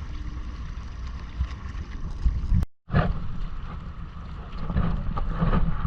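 Wind buffeting the microphone while water splashes and sloshes against the hull of a Hobie Island sailing kayak under way. The sound cuts out for a moment about halfway through.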